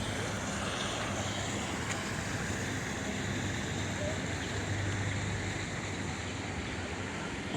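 Steady outdoor background noise with a low hum underneath.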